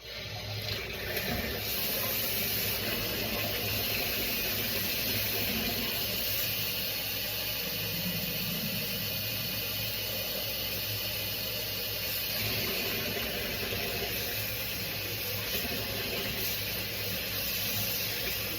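Kitchen tap running steadily, filling a bottle with cold water.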